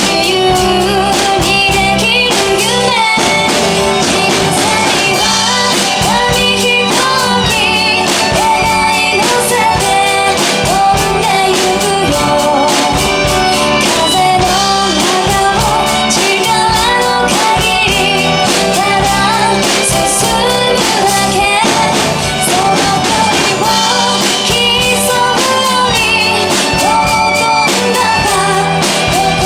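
Japanese pop song with a woman singing the melody over band accompaniment, a drum kit played along with it, hits keeping a steady beat throughout.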